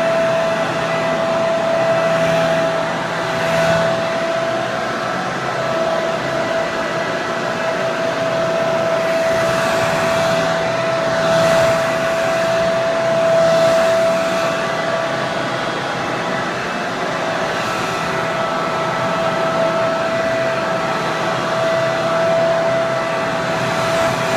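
Hair dryer running steadily: a continuous rush of air with a constant whine from the motor and a fainter low hum beneath it.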